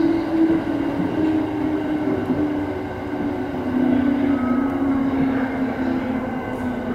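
E217-series electric train running slowly into a station, heard from the cab: steady running noise with a low motor whine that slides gradually lower in pitch as the train brakes to a stop.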